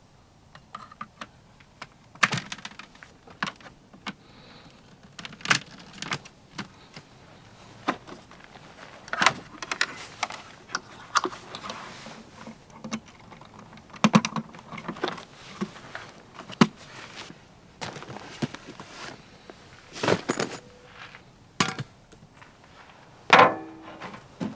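Irregular clicks, knocks and rustling, as of things being handled and set down, with one louder knock near the end.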